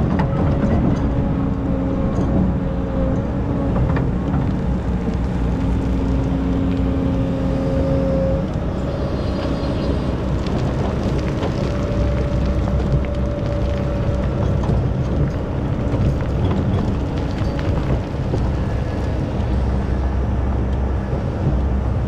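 Excavator's diesel engine running steadily under load, with a steady whine that stops about eight seconds in and scattered knocks and clanks.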